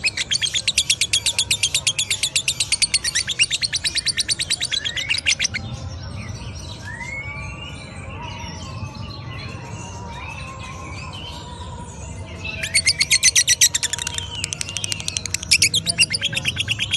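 Lovebird in 'ngekek' song: a long, fast, rattling chatter of high notes for about five seconds, then softer varied chirps and squeaky slides. The rapid chatter returns twice near the end.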